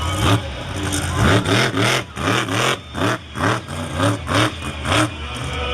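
Monster truck engine revving hard in quick repeated bursts, about three a second, each a short rise in pitch that drops back.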